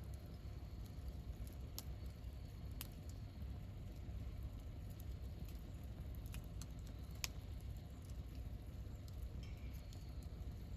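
Wood campfire burning: a steady low rumble with a few sharp crackles and pops from the burning wood, the loudest about seven seconds in.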